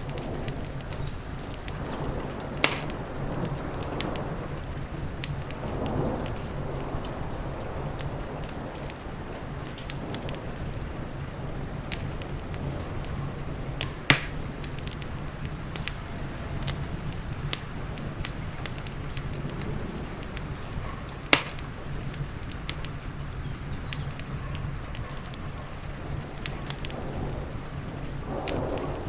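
Wood fire crackling with scattered sharp pops, three of them louder, about 3, 14 and 21 seconds in, over a steady low rumble and hiss of rain.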